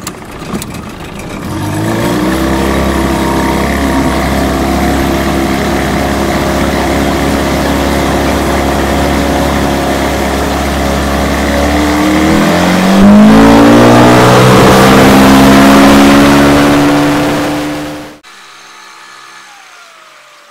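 Boat motor opening up about a second and a half in and running steadily under way, its pitch rising again around twelve seconds as it speeds up. The sound cuts off suddenly near the end.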